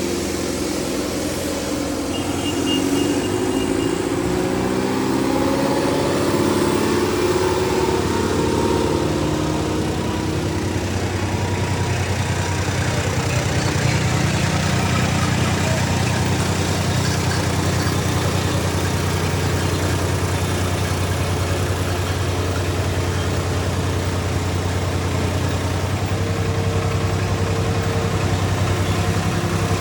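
Diesel tractor engines running, their pitch swinging up and down for the first ten seconds or so, then settling into a steady drone.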